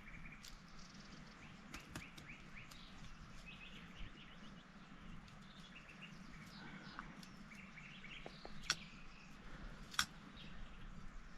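Small birds chirping and twittering in short, repeated calls. Two sharp clicks near the end are the loudest sounds.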